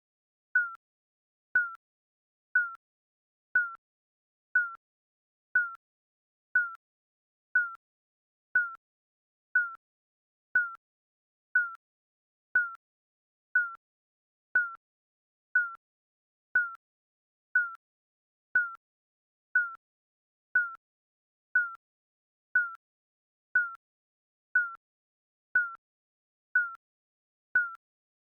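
Digital countdown timer beeping: one short, high blip every second, each dipping slightly in pitch and dying away quickly, in an even steady rhythm.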